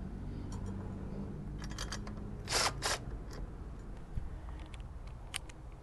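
Small metal bolts and hand tools clicking and clinking as the lower bracket bolts are started by hand. Scattered clicks, with a short rattling clatter about two and a half seconds in that is the loudest part, over a low steady hum.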